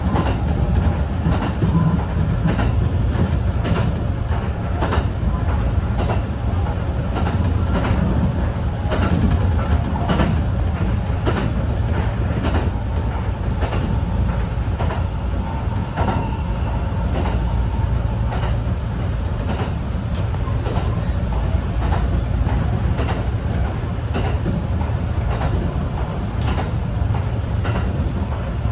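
Electric train running at speed, heard from inside the front car: a steady low rumble with the clickety-clack of wheels passing over rail joints.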